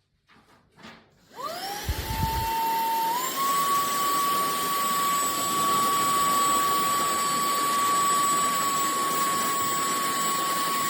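Cordless handheld vacuum cleaner switched on: the motor spins up with a rising whine, steps up a little in pitch about three seconds in, then runs steadily with a high whine over rushing air. A brief low thump comes about two seconds in.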